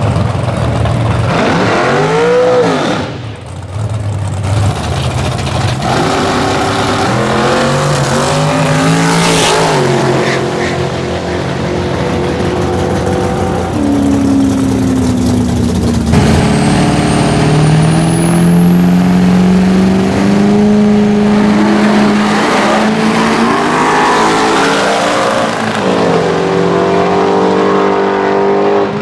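Drag-racing car engines revving and accelerating, the pitch climbing and falling several times, with a quick rev and drop about two seconds in. A high whistle rises steadily in pitch for a few seconds in the middle.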